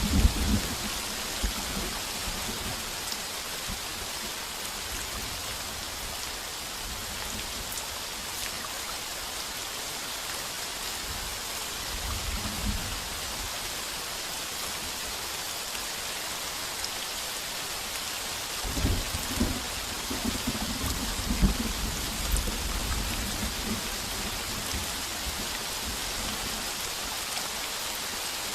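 Heavy rain drumming steadily on a tin roof, with thunder rumbling low right at the start, briefly near the middle, and in a longer roll about two-thirds of the way through.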